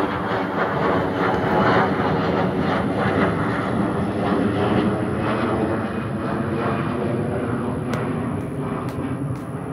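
Jet airliner departing, its engines at takeoff power giving a loud, steady noise that eases slightly in the second half.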